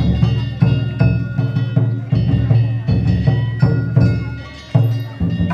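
Danjiri festival music: a big taiko drum beaten in a quick repeated rhythm, with metal kane gongs ringing over it.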